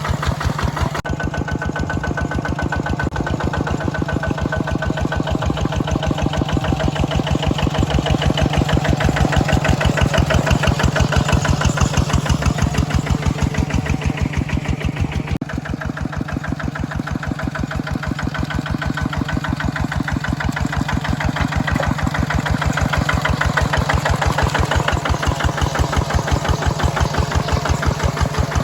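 Mini tractor's engine running steadily with a rapid, even chugging. It grows louder for a while, eases off about halfway through, then builds again as it works in the field.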